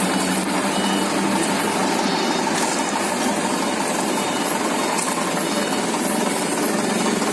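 Motorcycle engine running steadily through a homemade exhaust, with a rapid, even pulsing.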